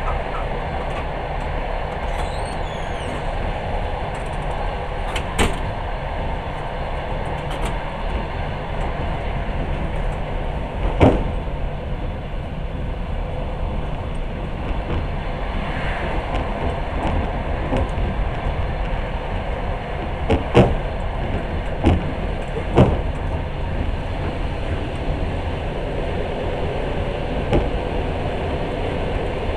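Passenger train running on the rails, heard from inside the carriage: a steady rumble broken by a few sharp knocks at irregular intervals, about five in half a minute.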